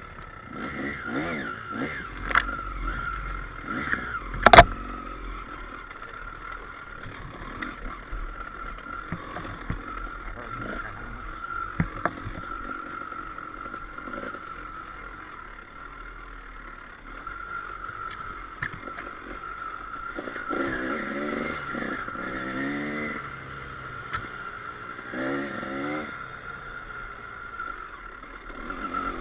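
Trail motorcycle riding over rough ground, its engine revving up and down twice in the second half, with knocks and clatter from the terrain and a sharp loud knock about four and a half seconds in.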